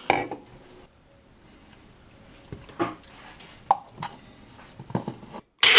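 Scattered light knocks and clicks of kitchen things being handled while a protein shake is made, about half a dozen spread over several seconds. A loud steady noise starts suddenly at the very end.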